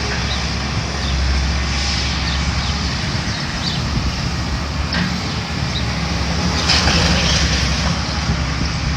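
Heavy demolition machinery running steadily with a low engine drone, with debris crunching and clattering about five seconds in and again near seven seconds as the building is torn down.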